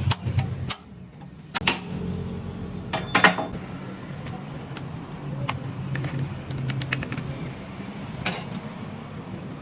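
Irregular sharp clicks and knocks, with a few louder knocks in the first three or four seconds, over a low steady hum.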